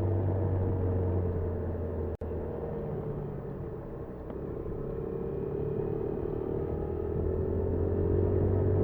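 Honda Super Cub 50 engine running with road noise, heard through the dashcam's microphone; its pitch sinks until about halfway, then climbs again. The sound cuts out for an instant about two seconds in.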